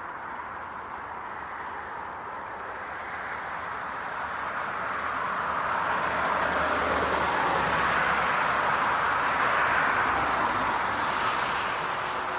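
Jet airliner engines passing: a rushing roar that swells over several seconds, is loudest about two-thirds of the way through, then begins to fade.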